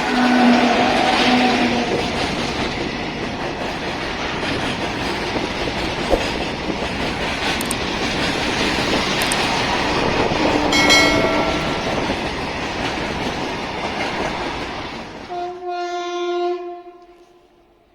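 Electric freight train passing close by, wheels rumbling and clattering over the rails, with short horn sounds near the start and about 11 seconds in. Near the end the rumble stops abruptly and a horn blast sounds for about a second and a half, then fades.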